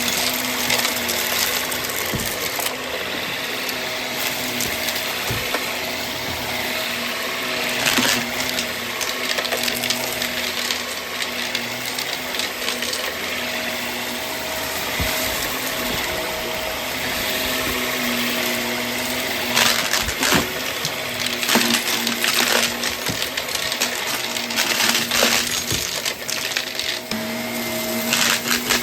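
Vacuum cleaner running steadily with a hum, while small hard debris clatters and crackles as it is sucked up, in bursts about a quarter of the way in and through much of the last third.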